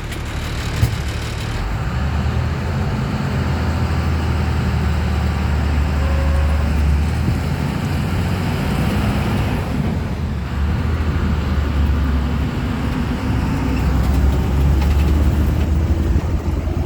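An amphibious duck boat's engine running as the vehicle drives, a steady low rumble mixed with road and wind noise, growing louder about two seconds in.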